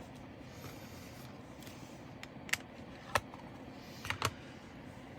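A few light, sharp clicks and taps from small plastic bags of diamond painting drills being handled on a table, about four in all, over a faint steady hum.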